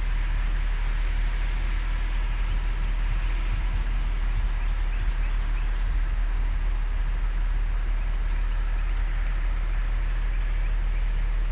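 A steady low rumble throughout, with many small bird chirps over it.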